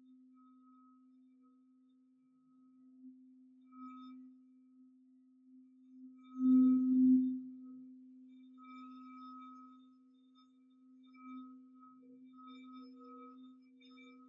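Singing bowl sounding a steady low hum with fainter, higher ringing overtones, swelling to its loudest about six and a half seconds in.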